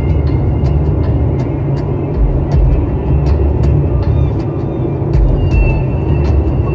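Steady low rumble of tyre and wind noise from a car travelling at freeway speed, heard from inside the vehicle, with frequent light clicks.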